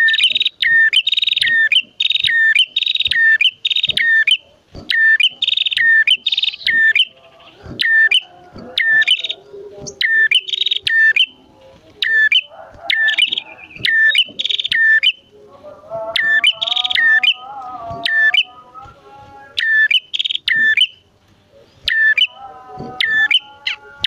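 Prenjak songbirds calling: a fast run of short, sharp, high calls, about two a second, with a second bird's lower wavering chatter joining in twice.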